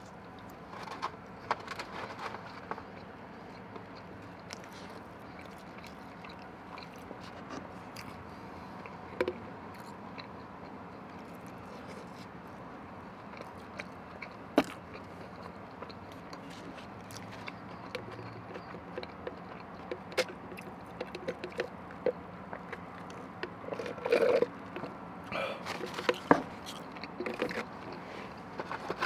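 Close-miked eating sounds: quiet chewing and mouth smacks with scattered small clicks, busier near the start and again near the end, over a faint steady hum.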